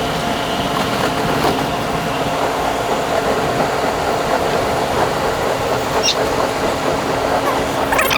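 Moving New York City subway train heard from inside the car: steady rumbling running noise with a motor whine that fades out about five seconds in. A brief high squeal comes about six seconds in, and high-pitched wheel squeals and rattling come near the end.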